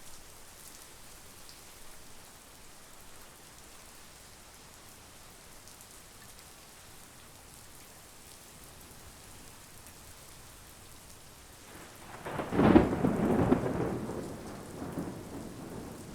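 Steady monsoon rain falling, then about twelve seconds in a crack of thunder breaks into a loud, crackling rumble that slowly rolls away.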